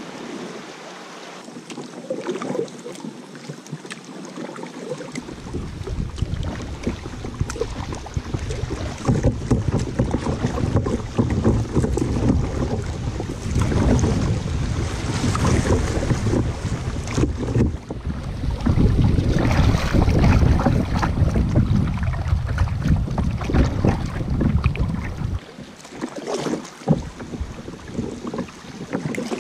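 Wind buffeting the microphone with a heavy low rumble, over the wash of water from kayaks paddling on a river. The wind rumble picks up about five seconds in and drops away a few seconds before the end.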